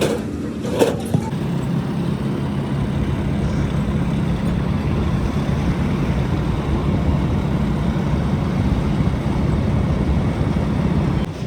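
A machine running with a steady low drone, with two sharp knocks about a second in. The drone stops just before the end.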